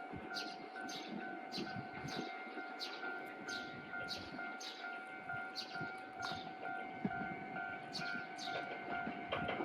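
Japanese level-crossing warning alarm sounding: regular ringing strokes about one and a half a second over steady electronic tones, as an Iyotetsu 700 series train approaches. The train's running noise swells near the end.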